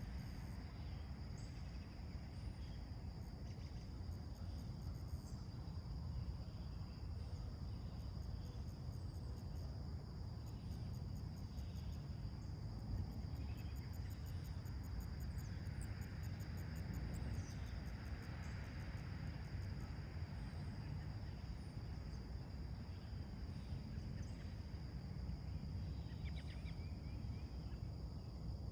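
Summer morning outdoor soundscape: crickets and other insects trill steadily over a constant low rumble, with scattered faint bird chirps and a short bird call near the end.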